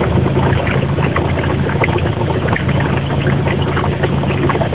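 HHO electrolyser cell bubbling as it makes gas: a steady fizzing with many small pops, over a low electrical hum.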